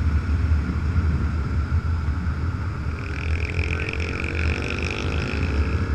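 Motorcycle riding on a highway: a steady low rumble of engine and wind. About halfway through, a higher engine tone comes in and rises steadily in pitch.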